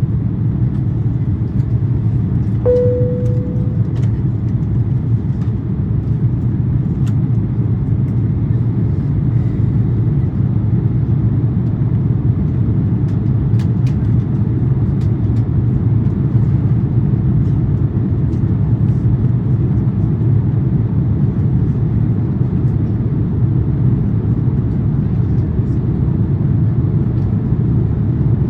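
Steady low rumble of engine and airflow inside the cabin of an Airbus A350-900 with Rolls-Royce Trent XWB engines in flight. A single cabin chime sounds about three seconds in and fades away, with a few faint ticks and rattles of cabin fittings.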